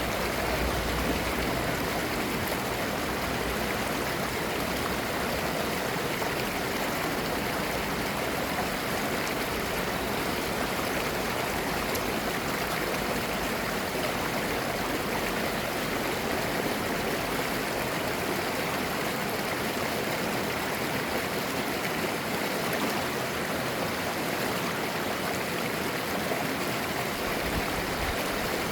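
Mountain stream flowing and gurgling over rocks, a steady rush of water.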